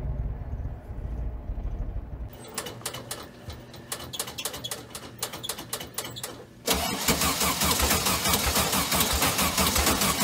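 A car engine cranking over on its starter with even, rapid clicks for about four seconds, then catching near two-thirds of the way through and running loudly with a fast, rough pulse. A low rumble fades out in the first two seconds.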